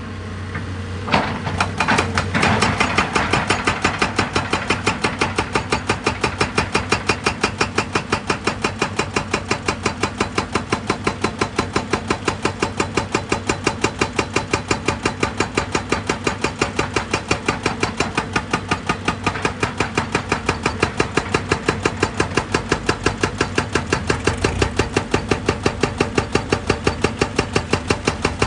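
Heavy machinery running with an even, rapid pounding rhythm of about four beats a second, which sets in a couple of seconds in after a few separate knocks.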